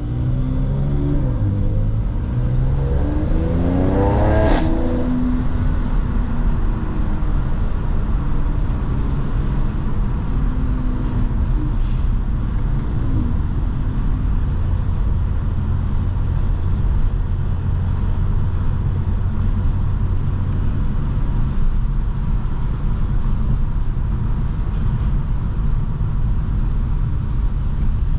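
Mercedes C43 AMG engine and exhaust accelerating, its pitch climbing for a few seconds up to a single sharp crack about four and a half seconds in, then a steady low drone as the car cruises.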